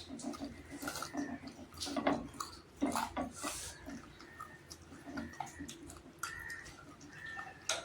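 Close-up eating sounds: chewing chicken and rice, with scattered short wet smacks, clicks and crunches from the bones.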